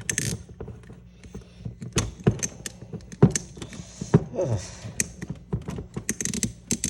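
Scattered plastic clicks and knocks from a FoodSaver wide-mouth jar sealer adapter being worked loose from the top of a freshly vacuum-sealed glass mason jar, with light handling rustle. The sharpest knocks come about three and four seconds in.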